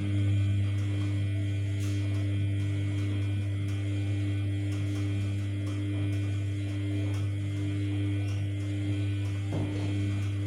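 Samsung P1271 washing machine giving a loud, steady electrical hum at a low, even pitch, the kind a pump or solenoid valve makes while it runs.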